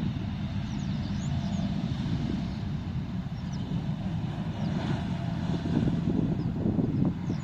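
Steady low rumble of a jet airliner's engines on approach to land.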